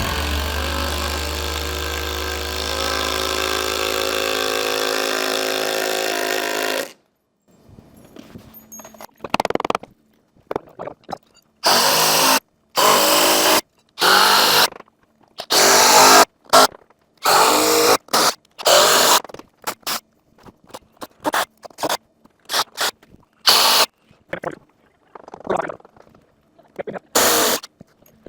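Background music that cuts off abruptly, then a handheld power tool run in repeated short bursts of about a second each, as when driving fasteners.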